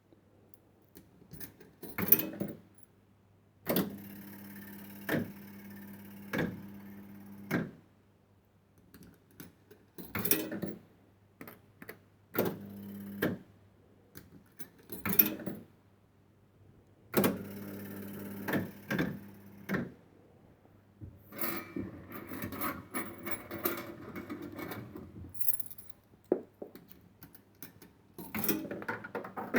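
1970s Funworld Stars & Stripes penny fruit machine being played: sharp clicks and clunks from its buttons and mechanism, and twice a steady motor hum as the reels spin for a few seconds, broken by clunks as they stop. A stretch of rattling, clinking sound follows later on.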